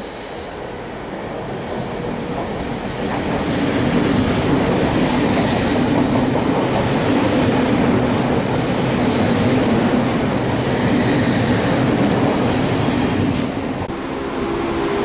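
A train moving on the tracks close by. It grows louder over the first four seconds, then holds loud with a steady low hum, and eases briefly near the end.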